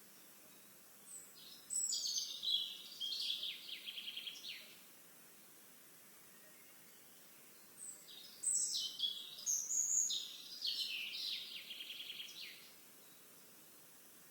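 A songbird singing the same complex song twice, about six seconds apart: a run of varied high notes that ends in a rapid trill.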